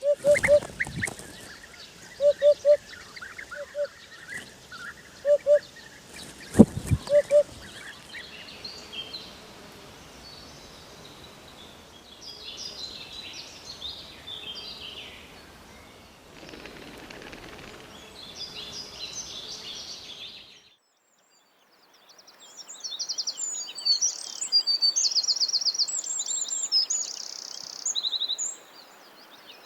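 Eurasian hoopoe calling its low, soft 'oop-oop-oop', in groups of two or three notes repeated several times in the first eight seconds, with other small birds chirping higher up; a sharp knock comes about six and a half seconds in. After a short pause about twenty-one seconds in, loud rapid high-pitched chirping and trilling of small birds.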